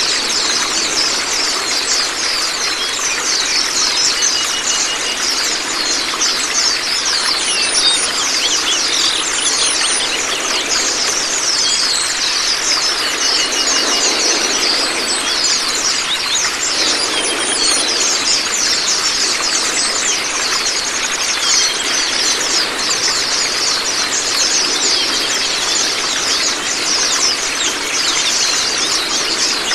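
Steady rush of running water with many small songbirds twittering over it in quick, high chirps. This is a water-therapy and song-master recording of the kind played to pet white-eyes (pleci).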